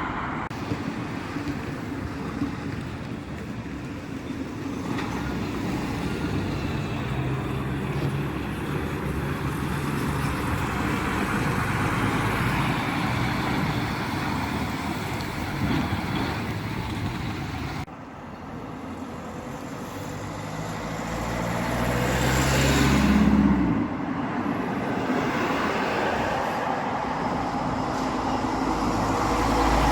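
Heavy trucks on a road: engine drone and tyre and traffic noise. After an abrupt cut, a truck's engine rises in pitch as it passes close, loudest about three quarters of the way through, and another vehicle builds up near the end.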